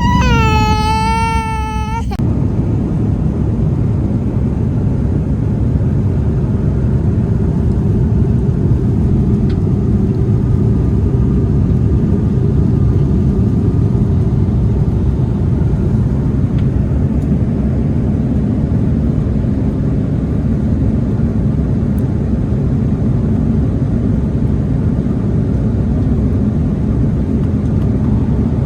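A small child's wavering, wailing cry for about two seconds, then the steady low rumble of a jet airliner's cabin in flight.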